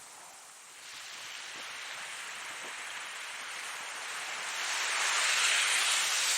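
Ocean waves breaking: a steady wash of surf that swells about a second in and builds to a louder crash of a wave near the end.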